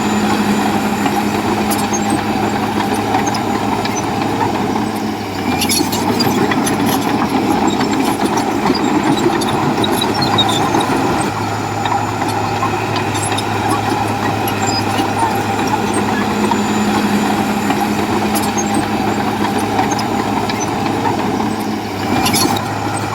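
Bulldozer's diesel engine running steadily, its tone shifting a couple of times as the load changes, with a few sharp knocks.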